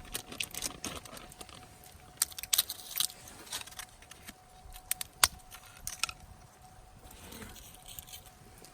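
Irregular sharp clicks and clinks, a few louder ones clustered about two to three seconds in and a single loud one about five seconds in.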